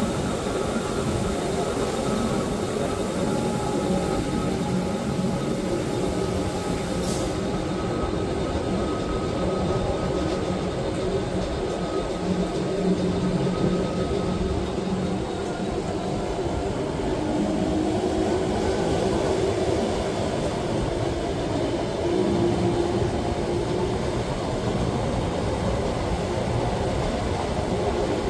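Wengernalpbahn rack-railway train running steadily, a continuous rumble with a low hum and faint whining tones. A short tick about seven seconds in.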